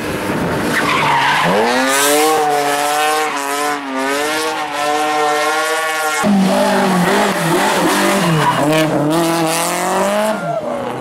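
Rally car engine at high revs: the pitch climbs hard as it accelerates, holds high, then breaks off abruptly about six seconds in to another engine whose pitch rises and drops with gear changes before falling away near the end.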